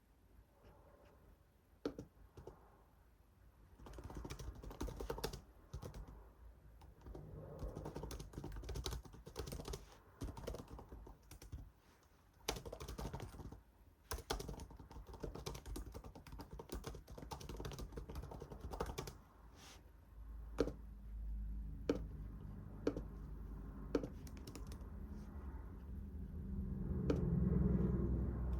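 Typing on a computer keyboard in quick bursts of key clicks, then a few separate key presses. A low rumble swells near the end.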